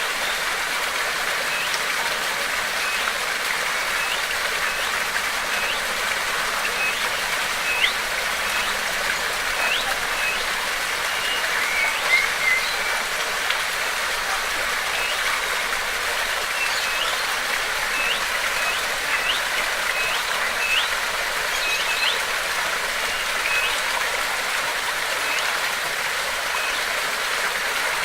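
Steady rush of flowing water, with a small bird calling over it in short rising chirps that come in quick runs, several at a time.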